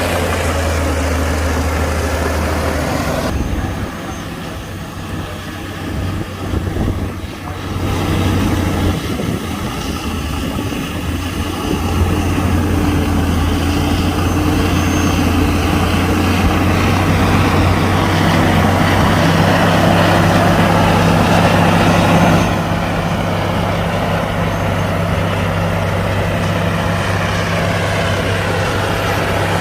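Diesel engines of heavy earthmoving machinery running under load. The engine note eases about three seconds in and rises again around twelve seconds. It holds louder until about twenty-two seconds, then drops back.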